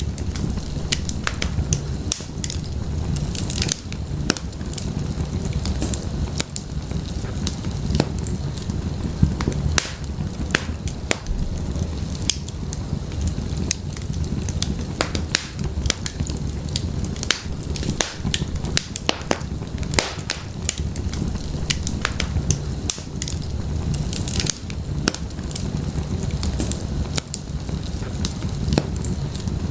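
Wood fire burning in an open fireplace: a steady low rumble of flames with frequent, irregular sharp crackles and pops from the burning firewood.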